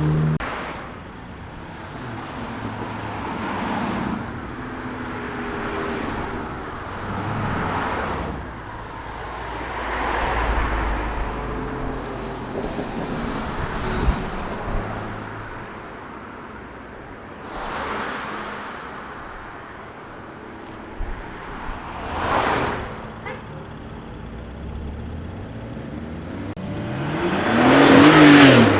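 Cars driving past one after another, each swelling and fading. The loudest passes near the end, its engine note rising and then falling as it goes by.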